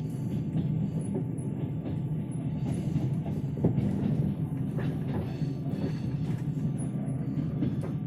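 Steady low rumble of a moving passenger train heard from inside the carriage, the wheels running on the rails, with a few sharp clicks about halfway through.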